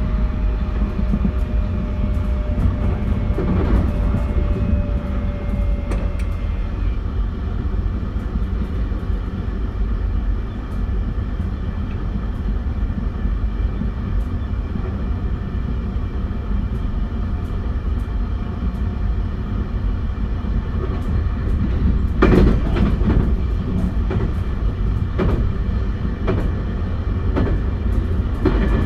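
JR West 271 series electric train running at speed: a steady rumble of wheels on rail with a faint steady whine from its Hitachi SiC-inverter traction drive. A few sharp wheel clacks over rail joints come in a cluster a little over 20 seconds in.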